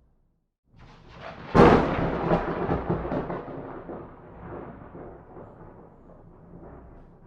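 A thunderclap: after a brief silence a rumble builds, then a sharp crack comes about one and a half seconds in. It is the loudest moment, and a rolling rumble follows, fading away over several seconds.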